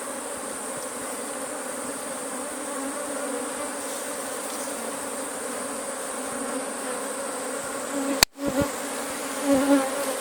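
A mass of honeybees at their hive buzzing, a steady low hum. A sharp click with a brief cut-out comes about eight seconds in, and the buzz swells louder twice near the end as bees pass close.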